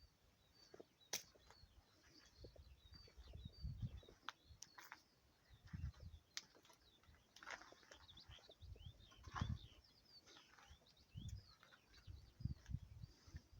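Near silence with faint birds chirping throughout, broken by intermittent low rumbles and a few sharp clicks.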